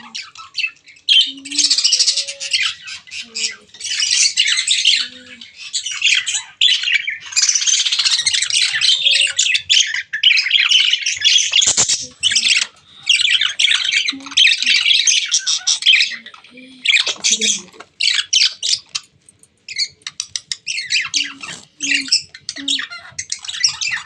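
Baby birds chirping and squawking in rapid, dense bouts of high-pitched calls, with short pauses between bouts.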